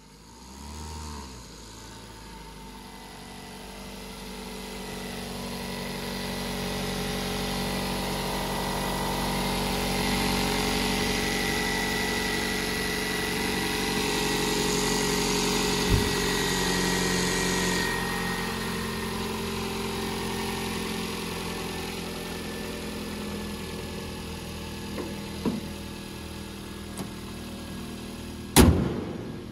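Toyota Corolla's four-cylinder petrol engine starting, with a brief flare of revs, and then idling steadily. Near the end the bonnet is slammed shut with one loud bang.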